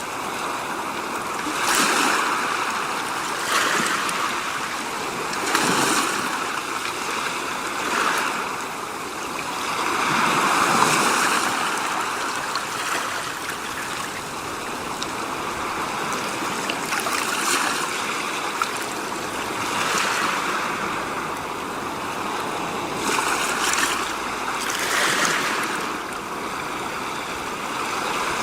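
Rushing water, a steady wash that swells and fades every few seconds.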